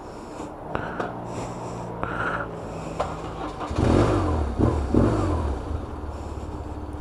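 BMW R1100RS boxer-twin motorcycle engine comes on about a second in, is revved briefly a few times near the middle, then settles into a steady idle.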